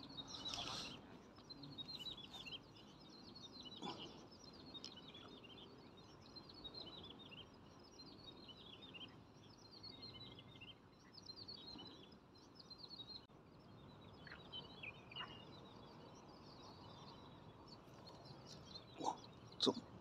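Small birds chirping and singing continuously in quick, high, falling chirps over faint outdoor background noise. A couple of sharp knocks sound near the end.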